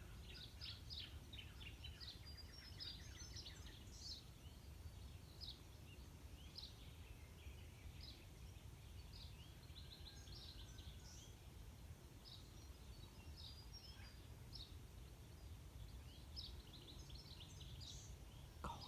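Garden birds singing: many short, high chirps and twitters, faint over a steady low background rumble.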